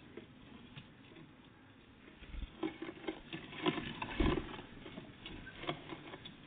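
Tits pecking and scrabbling at a bird feeder: irregular light taps and clicks of beaks and claws, busiest in the middle.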